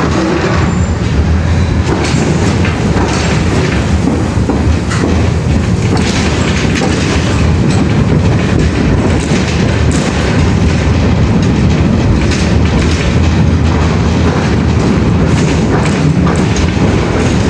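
Loud, steady rumbling noise with short clicks and knocks scattered through it.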